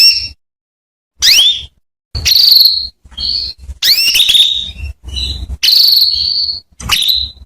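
Female canary calling: a run of short high-pitched calls separated by brief silences, some quick upward-sweeping chirps and some longer held notes.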